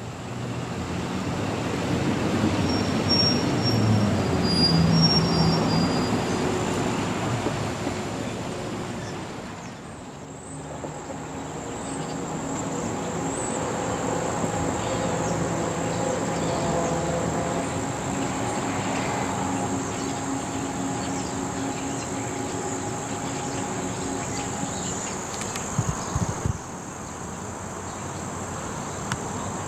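A vehicle's noise swells and fades over the first ten seconds. After that, an engine runs steadily with a hum of several tones, which stops near the end. Insects chirp throughout in a steady high buzz.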